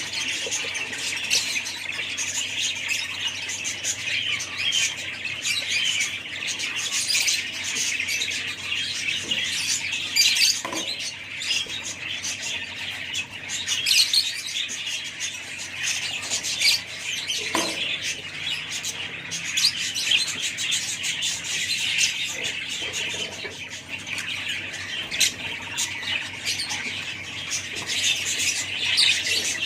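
Many small parrots chirping and squawking together in a continuous, dense chatter, with a few louder single calls standing out.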